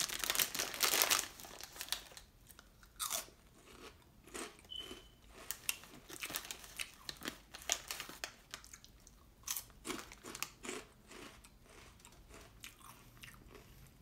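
Close-up chewing of Cheetos, with a run of sharp, irregular crunches. The crunching is densest and loudest in the first second or so, then comes as separate bites and chews.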